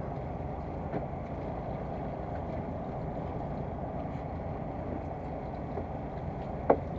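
Fishing boat's engine running steadily while underway, a low even rumble, with a short sharp knock near the end.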